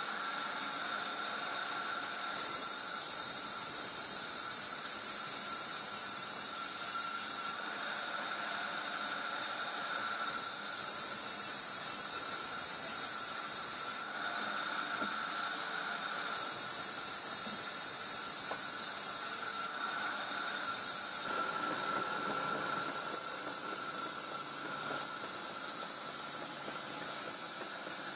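Sawmill machinery running steadily with a thin whine, broken by repeated loud bursts of high hissing noise lasting a few seconds each, four times.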